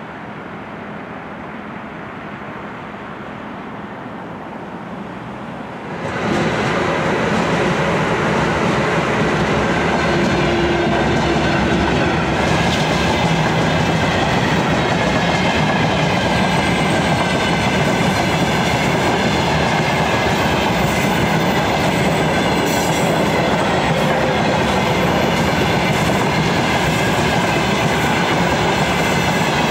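Freight train of open-top wagons passing close by: loud, steady wheel-on-rail noise that starts suddenly about six seconds in, after a quieter stretch, with faint thin high tones over it.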